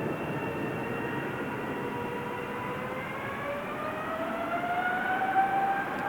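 Boeing 777-300ER's GE90-115B turbofan engines spooling up: a jet roar with a whine that rises slowly in pitch through the second half.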